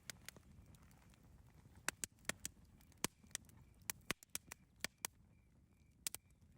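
Wood fire crackling: irregular sharp pops and snaps of burning wood, some single and some in quick clusters, over a faint low background noise.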